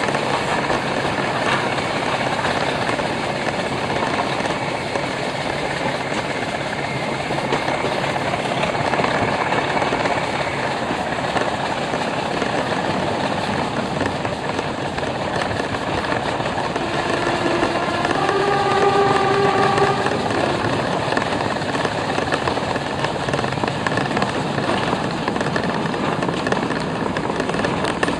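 A double-headed train of a Black 5 steam locomotive and a Class 26 diesel running at speed, a steady rumble of engine and wheels on rail. About two-thirds of the way through, a warning note sounds for about three seconds and steps up in pitch partway through.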